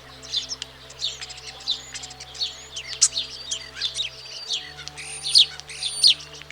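European starling singing: a rapid, varied jumble of chirps, clicks and sliding whistles, with a couple of high drawn-out whistles near the end.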